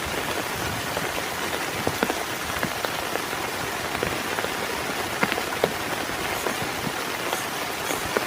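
Heavy rain falling steadily, a dense hiss with scattered sharp ticks of individual drops hitting close by.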